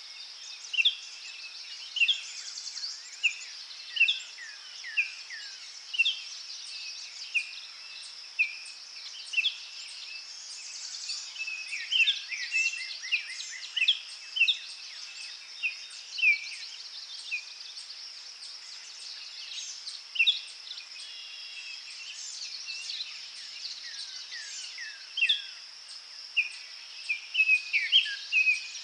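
Forest birds singing and calling: short whistled chirps and quick downward-sliding notes, one or two a second, over a steady high-pitched drone.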